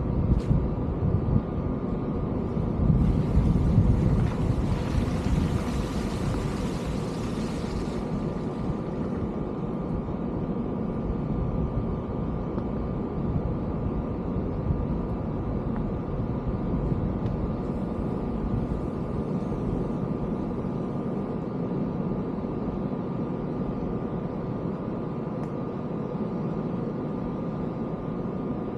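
Steady low mechanical hum with faint steady tones, like a vehicle running, and a louder rushing hiss from about three to eight seconds in.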